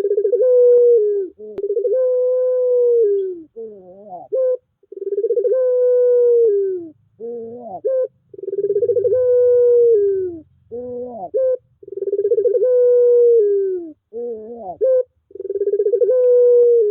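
Puter pelung dove cooing its long song, the same phrase over and over: a few quick rising-and-falling notes, then one long held coo that drops at the end. The phrase comes about every three and a half seconds.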